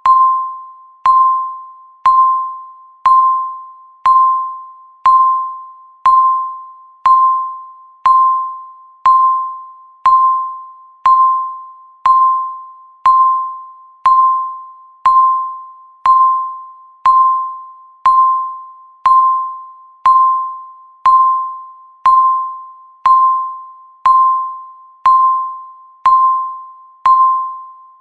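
Countdown timer beeping once a second: a short, clear electronic beep that starts sharply and fades away before the next one.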